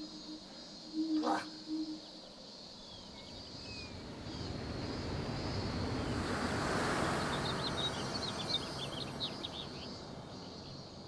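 Small birds chirping, with a broad rushing sound that swells over several seconds and then fades. A low steady hum and a single click come in the first two seconds.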